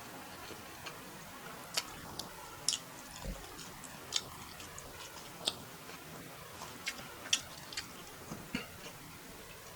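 Close-miked eating sounds: irregular sharp mouth clicks and smacks while chewing a mouthful of fried rice.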